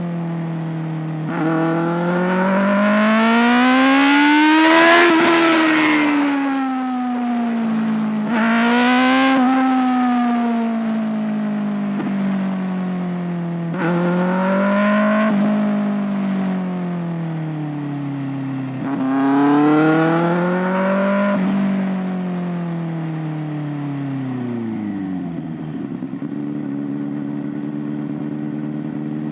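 Kawasaki ZX-6R 636's inline-four engine and exhaust, revs climbing and falling four times, each climb starting with a sudden jump in pitch. Near the end it drops and settles to a steady idle.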